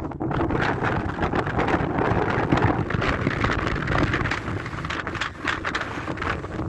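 Wind buffeting a phone's microphone in gusts: a rumbling, rushing noise that swells and dips every moment.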